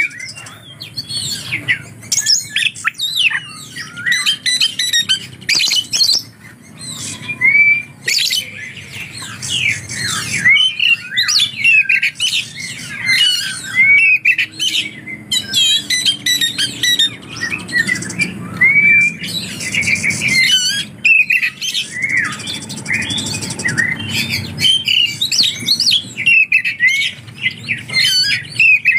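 Oriental magpie-robin (kacer) singing a fast, unbroken stream of varied whistles, chirps and harsh squawking notes, its song packed with mimicked lovebird calls.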